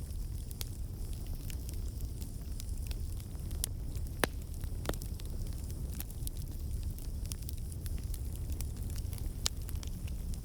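Campfire burning with a steady low rumble and hiss, and irregular sharp crackles and pops of the wood, a few of them louder, about four and five seconds in.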